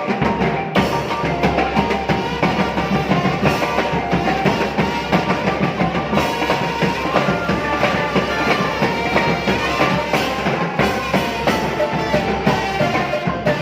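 Thai trae wong brass band playing a tune, with horns holding and moving between notes over a steady drum beat.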